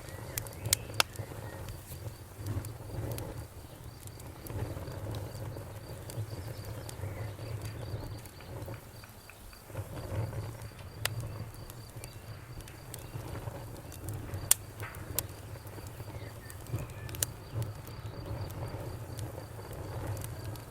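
Campfire burning: a steady low rumble of flames with sharp crackles and pops scattered through, the loudest a little past the middle. A faint, evenly pulsing high chirp runs underneath.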